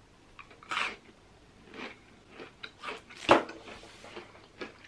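Biting into and chewing a Crunchie bar, the brittle honeycomb toffee centre under its chocolate coating crunching in a few sharp crunches about a second apart, the loudest about three seconds in.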